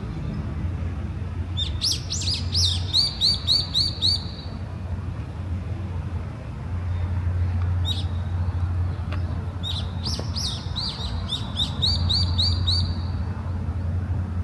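A small songbird singing two phrases, each a quick run of sharp notes that settles into a fast, evenly repeated trill and lasts about three seconds, with a single short call between them. A steady low rumble runs underneath.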